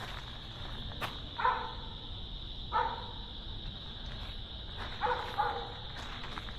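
Steady high-pitched chirring of a night cricket chorus, over which short animal calls sound every second or two, two of them close together about five seconds in.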